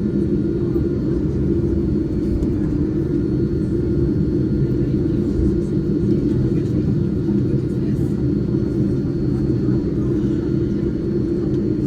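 Steady low rumble inside the cabin of a Boeing 787-9 airliner taxiing on the ground with its engines at idle, with a faint steady whine above it.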